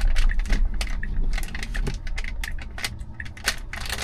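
Quick, irregular light clicking and ticking over a low rumble inside a car cabin.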